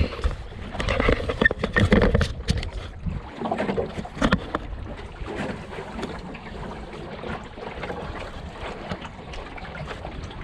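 Enterprise sailing dinghy under way: water splashing and sloshing against the hull with wind buffeting the microphone. A cluster of sharp knocks and splashes in the first three seconds, then a steadier wash of water and wind.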